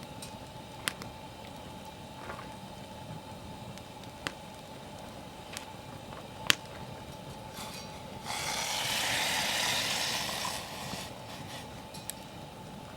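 Wood campfire burning, with a few sharp pops spread through and a loud rushing hiss lasting about two and a half seconds, past the middle.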